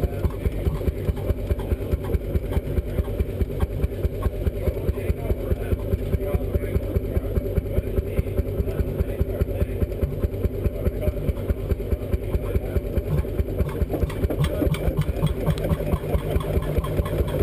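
The single-cylinder two-stroke hot-bulb semi-diesel of a 1921 Lanz Bulldog 12 hp road engine running at idle, firing in a steady, even beat of about five a second.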